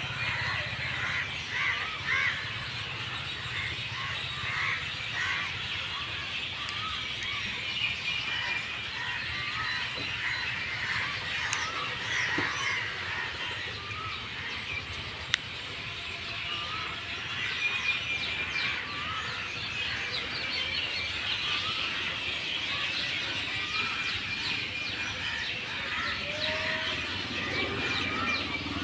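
A flock of many birds chirping and calling together: a dense chorus of short, overlapping chirps and twitters.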